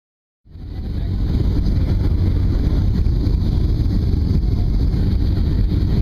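Steady rumbling cabin noise of a Boeing 737-700 in flight, engines and airflow heard from inside the passenger cabin, fading in about half a second in.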